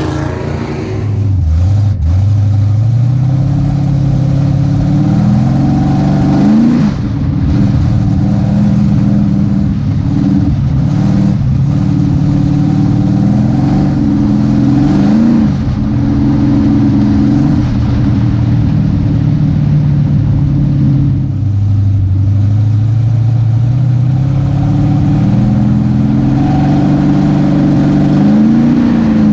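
V8 engine of a pure stock dirt track race car under load, its pitch climbing as it accelerates and dropping back as it lifts off, several times over, as on laps of an oval.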